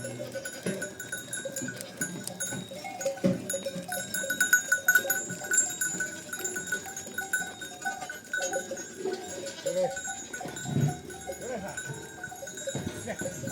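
A flock of livestock bleating now and then, over the steady ringing of their neck bells.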